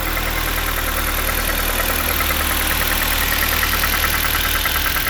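2016 Jeep Patriot Sport's 2.0-litre four-cylinder engine idling steadily, with a quick, even ticking over the low hum.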